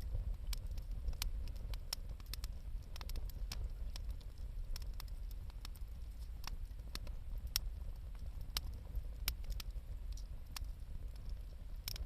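Wood fire crackling: irregular sharp pops and snaps, a few a second, over a steady low rumble.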